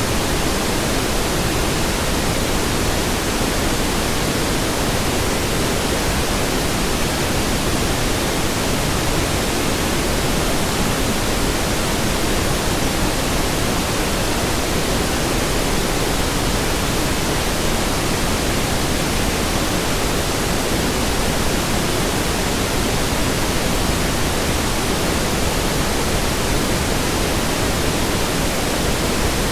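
Steady pink noise: an even, unchanging hiss across all frequencies, fuller in the low end than white noise.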